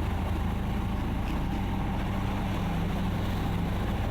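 Motorboat engine running steadily under way: a steady low hum with a rushing noise over it.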